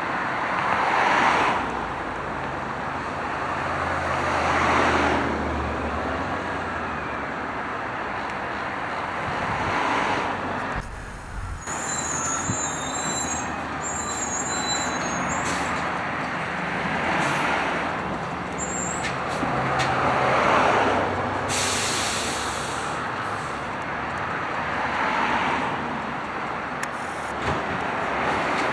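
Garbage truck engine running low and steady, with a wash of noise that swells and fades every few seconds.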